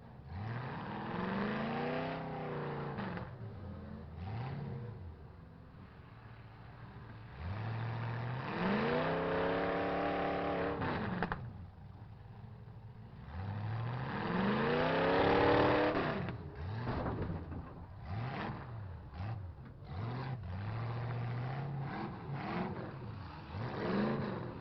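Demolition-derby truck engines revving up and falling back again and again, several long surges and then quicker blips, with short clattering knocks of metal in the second half.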